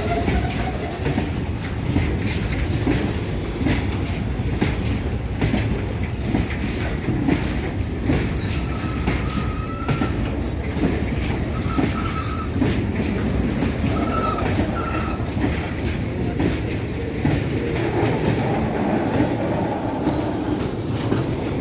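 Indian Railways goods train rolling past, its wagon wheels clattering steadily over the rail joints, with a few faint short squeals near the middle.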